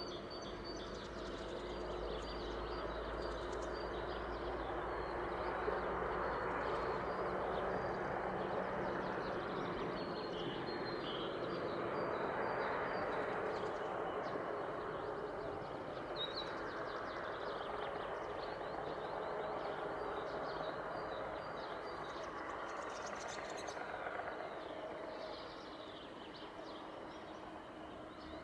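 Small birds chirping and twittering over a steady rushing background noise that slowly swells and fades, with a low rumble under it in the first half.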